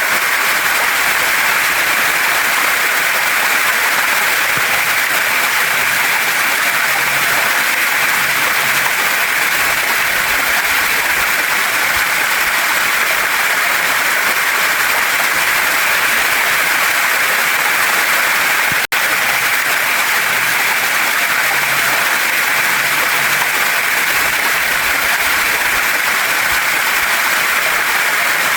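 Steady rush of a waterfall and stream running over rocks, broken once by a split-second dropout about two-thirds of the way through.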